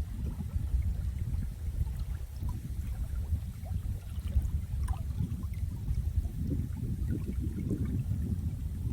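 Running water: a steady low rushing that swells and eases, with small scattered splashes above it.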